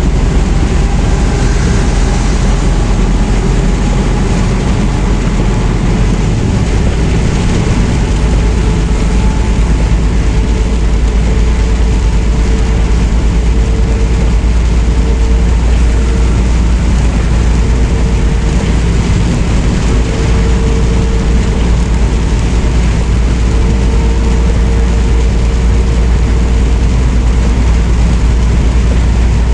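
Steady drone of a semi truck's diesel engine and road noise, heard from inside the cab while driving.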